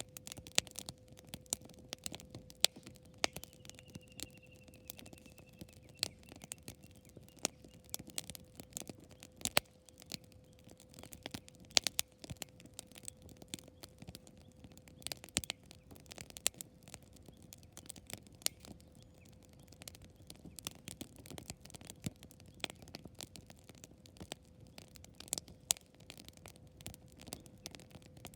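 Wood campfire crackling, with frequent irregular sharp pops and snaps over a soft low hiss of flame. A faint steady hum runs underneath, and a brief faint falling whistle sounds a few seconds in.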